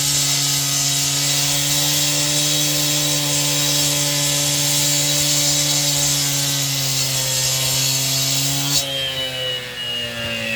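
Power saw cutting wood with its motor running at a steady pitch. About nine seconds in, the cutting noise stops suddenly and the motor's pitch falls as it winds down.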